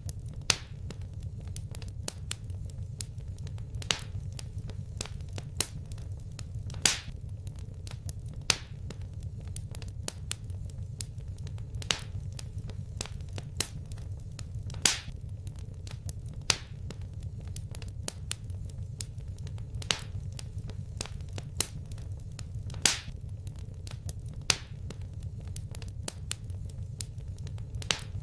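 Wood fire crackling in a fireplace: irregular sharp pops and snaps, a louder one every second or two among many small ticks, over a steady low rumble of the flames.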